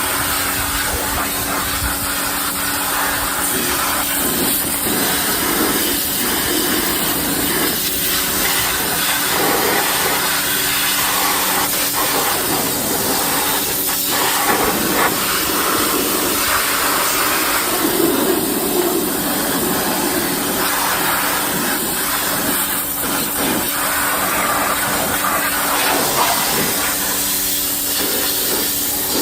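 Ryobi pressure washer running, its water jet hissing and spattering as it sprays down a car's engine bay, over a steady hum from the washer's motor and pump.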